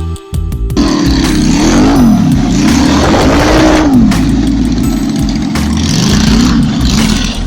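A motorcycle engine being revved, its pitch rising and falling in several swells over a steady low rumble. It comes in about a second in, as background music cuts off.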